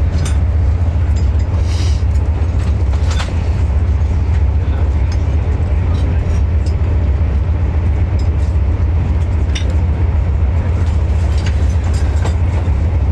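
Steady low rumble of a moving passenger train heard from inside the carriage, with a few brief clicks and knocks.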